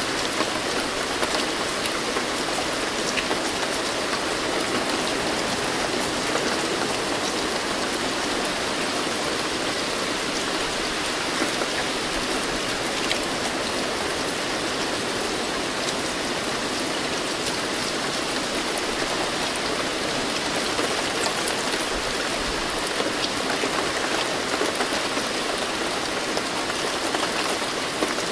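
Steady rain falling, a constant hiss of drops with fine patter of individual drops striking a surface.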